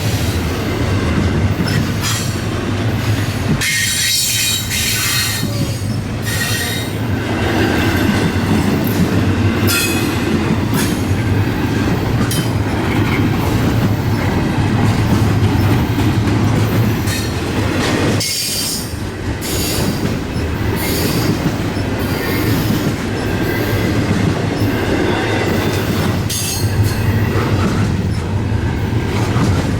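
Long intermodal freight train rolling past: a steady rumble of steel wheels on rail, with clacking and recurring high-pitched wheel squeals.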